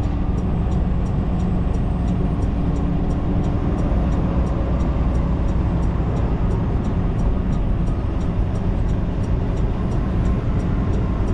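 Steady rumble inside a semi-truck's cab at highway speed: diesel engine and road noise.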